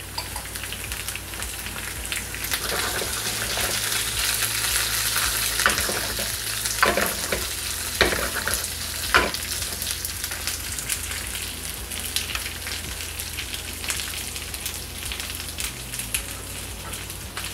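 Cauliflower, carrots, green beans and soaked chana dal sizzling in hot oil in a non-stick frying pan, stirred with a wooden spatula, with a few sharper scrapes of the spatula around the middle.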